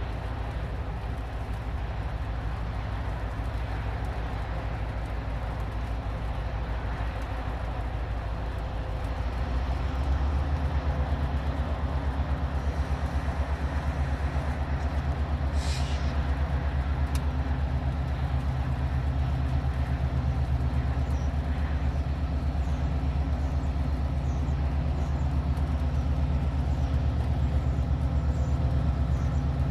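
Train running, a steady low rumble with a fast even rhythm that grows louder about ten seconds in. A short hiss comes through about halfway.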